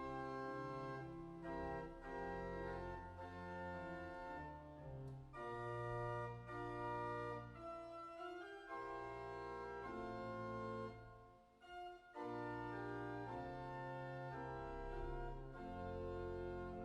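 Organ playing slow, sustained chords that change every second or so, with a brief break about eleven and a half seconds in.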